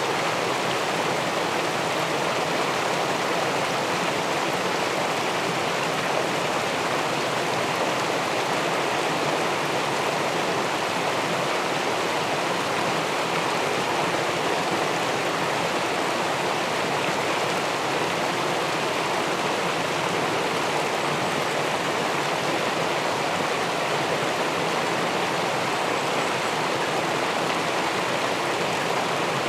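Steady rush of river water spilling over and below a small weir, heard through a camera submerged in the pool.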